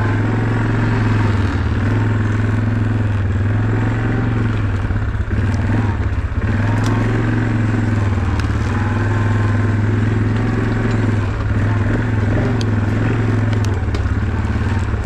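Small off-road vehicle's engine running steadily at low speed on a trail, easing off briefly a few times, with scattered sharp clicks.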